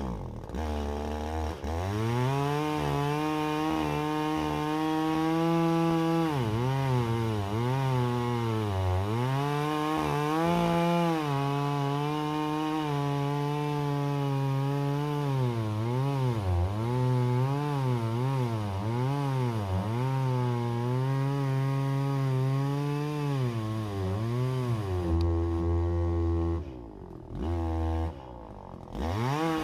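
Chainsaw running through a cut in wood, its engine pitch dipping as it bogs under load and rising again as it revs free. Near the end it drops away briefly twice before picking up again.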